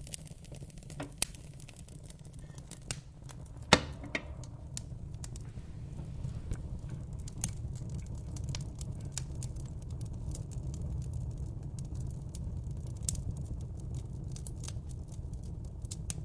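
Wood fire crackling: irregular sharp pops and snaps over a steady low rumble of flames, with one loud pop about four seconds in.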